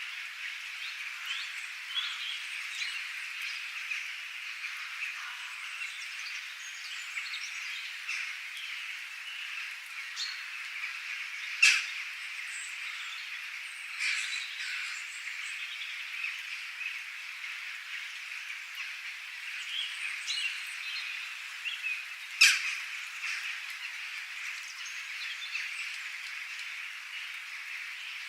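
Birds chirping over a steady high-pitched outdoor chorus, with two loud sharp calls about twelve and twenty-two seconds in.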